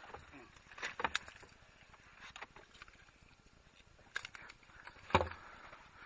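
Scattered knocks and clicks of handling on a small boat, about five in all, the loudest a knock about five seconds in.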